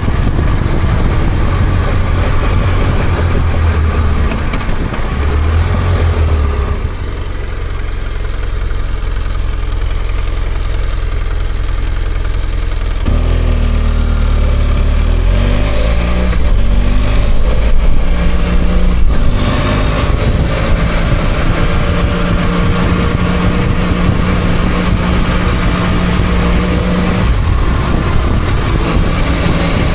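BMW F800GS parallel-twin motorcycle engine under way, with a steady rush of noise behind it. About a third of the way in the engine settles low; it then climbs in pitch in several steps as the bike accelerates, and from about two-thirds of the way in it holds a steady note at cruising speed.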